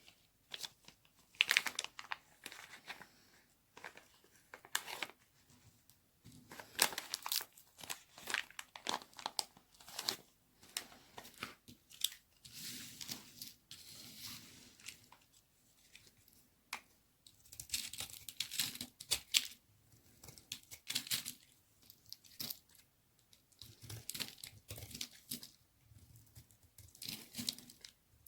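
A knife cutting through a bar of dry white baby soap: a run of crisp crackling strokes, one every second or two, each a quick cluster of sharp snaps.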